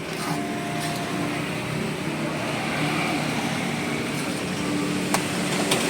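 Steady street traffic noise with vehicle engines running, and two sharp clicks near the end.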